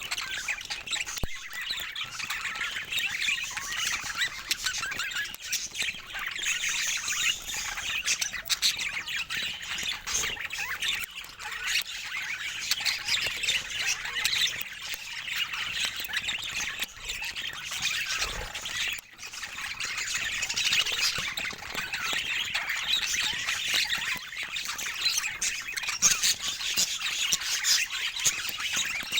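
Budgerigars chattering and squawking without pause: a flock's many overlapping warbles, chirps and harsh squawks, with a brief lull about two-thirds of the way through.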